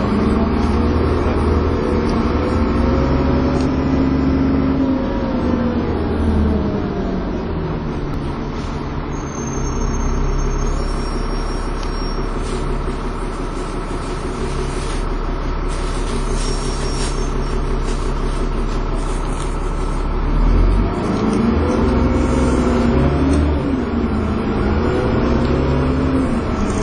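Dennis Trident 2 double-decker bus pulling away and accelerating, its drivetrain giving a hoover-like whine that climbs and falls through the gears. After a steadier stretch of running, the whine climbs and falls again in the last few seconds as the bus accelerates once more.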